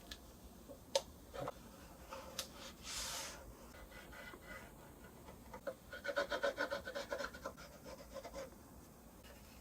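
Hand work on a cello's wooden body: a few light knocks and a short hiss, then a quick run of rubbing strokes about six seconds in.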